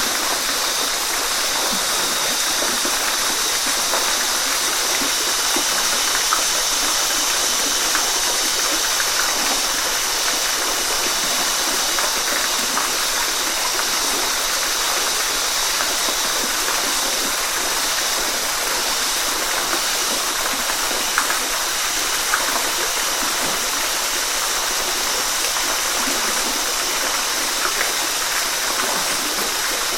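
Waterfall rushing steadily, a continuous hiss of falling water with small splashes and no change in level.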